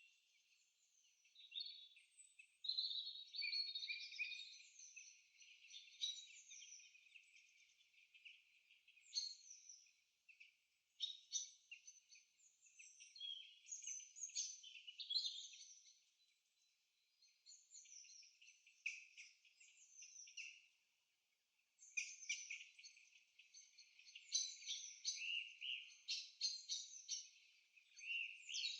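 Birds chirping and trilling, faint and high-pitched, in bunches of overlapping calls with brief lulls between.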